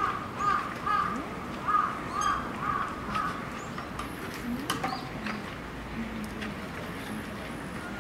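A bird calling: a run of about six short, repeated calls in the first three seconds, then a few sharp knocks.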